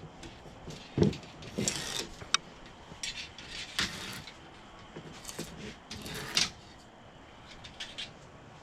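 Old rubber screen spline being pulled out of the channel of a door screen frame, with a series of irregular scrapes, clicks and rustles of the frame and old mesh. The loudest sharp knock comes about a second in, another near the end of the sixth second.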